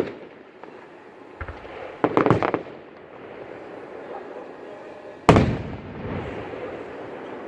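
Aerial fireworks bursting: a sharp bang at the start, a quick cluster of crackling pops about two seconds in, then a loud boom a little past five seconds that fades out slowly.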